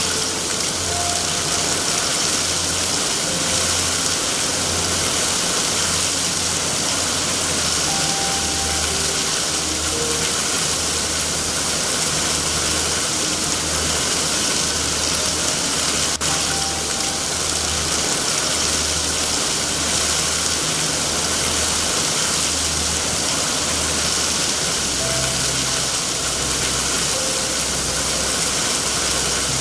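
Steady heavy rain, an even hiss over a continuous low rumble.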